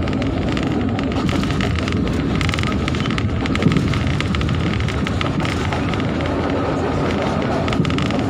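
Steady running noise of a moving passenger train heard from inside the coach: wheels on the rails and the coach rattling, with a short louder knock a little past a third of the way in.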